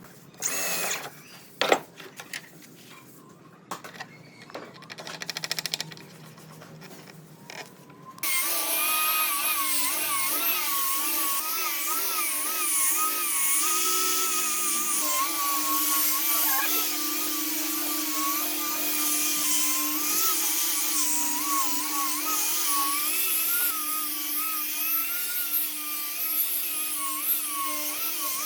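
Scattered knocks and clicks, then from about eight seconds in a handheld electric power tool runs continuously, its whine wavering in pitch.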